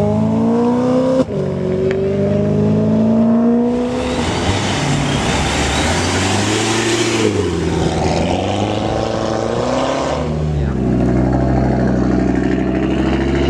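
A high-performance car engine accelerating hard, its pitch climbing, dropping suddenly at a quick upshift about a second in, then climbing again. It gives way to a loud rushing noise, then wavering engine tones, and settles into a lower, steadier drone near the end.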